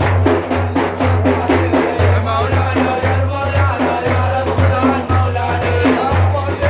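Sufi devotional praise song (madih): drums keep a steady, even beat under a sung melody.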